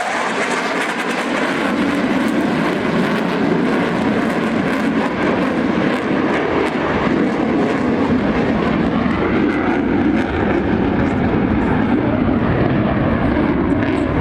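Blue Angels jet aircraft engines running loud and steady, with a faint whine that glides up and back down about two-thirds of the way through.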